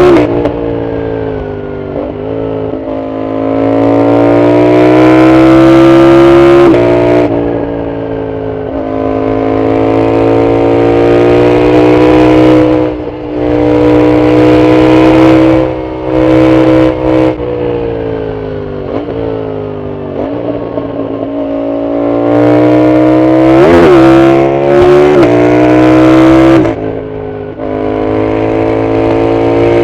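Yamaha MT-07's CP2 parallel-twin engine, with a full Arrow exhaust, under hard riding. Its pitch climbs as the throttle opens and falls away as it closes, and the level drops suddenly several times, with quick blips around the middle and near the end.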